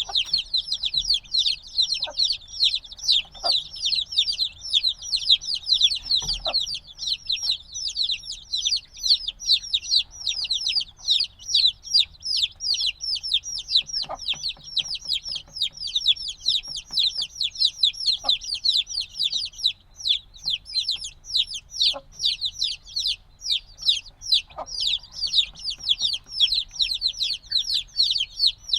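A brood of chicks a few days old cheeping nonstop, many high, short, falling peeps overlapping several times a second. A few faint taps and knocks sound beneath them now and then.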